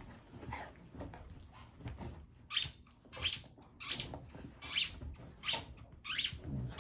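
A squeaky dog toy squeaked over and over: about six short, high squeaks spaced evenly, starting about two and a half seconds in.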